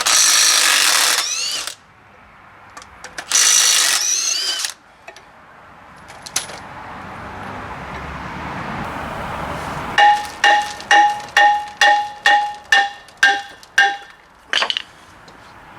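Two loud bursts of a power tool with a rising whine near the start, then about ten ringing hammer blows on metal, about two a second, during work on a truck's front wheel hub and its inner wheel seal.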